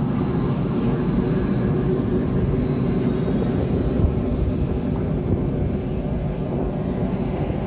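Steady rumble of a Kawasaki T-4 jet trainer's twin turbofan engines, heard from a distance, with a faint high whine over it.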